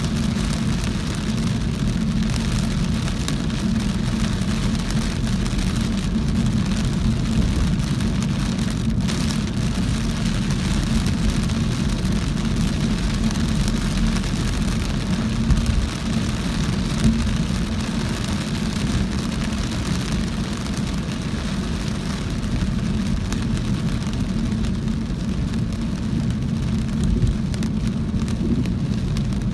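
A car driving in very heavy rain: a steady hiss of rain falling on the car over the low, even rumble of the car and its tyres on the wet road.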